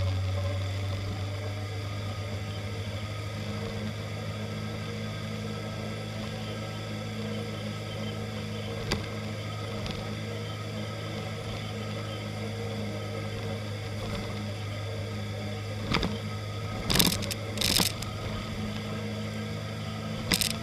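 A motorcycle engine runs steadily at town cruising speed, about 50 km/h, heard from a camera mounted on the bike. A few short, sharp bursts of noise come late on.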